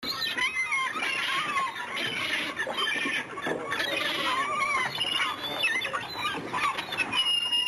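A dense chorus of birds calling over each other: many short, wavering high calls overlapping without a break.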